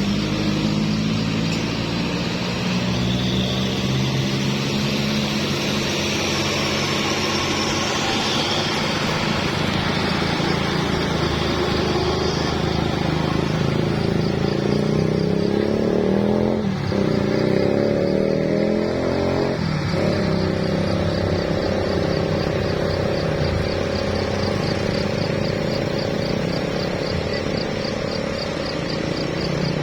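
Motor vehicle engine running steadily, rising in pitch a little past the middle with two brief breaks. A rapid high ticking joins in the second half.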